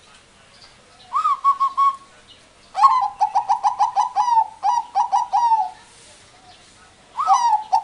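Pet cage bird calling. A short note comes first, then a long run of quick, evenly repeated notes at one pitch, and another run starts near the end.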